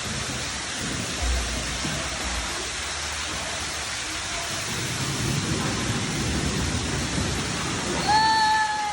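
Steady rushing hiss of flowing, splashing water, with a short rumble about a second in and a brief voice call near the end.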